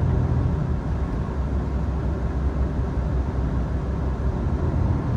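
Inside a diesel limited express train just pulling away from a station: a steady low rumble of engine and running noise.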